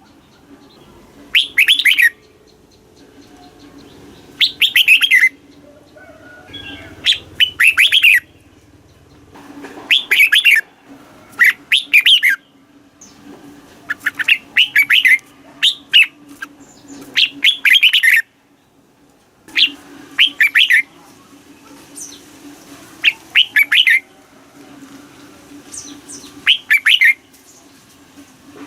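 Red-whiskered bulbul singing short, rapid, warbling phrases about a dozen times, a phrase every one to three seconds, over a steady low hum.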